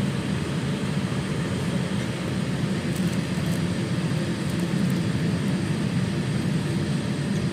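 Steady cabin noise inside a Boeing 787-9 airliner: an even, low rush of engine and air noise that holds without change.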